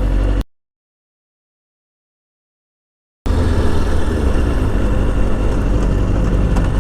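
Motorcycle engine running with wind and road noise, as heard from an onboard camera while riding. About half a second in, the sound drops out completely for nearly three seconds of dead silence, then comes back.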